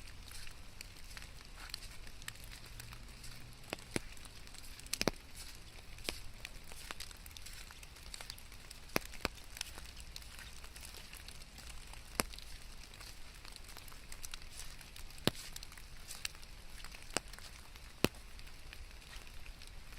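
Rain falling in a steady hiss, with scattered sharp ticks of drops striking close by at irregular moments.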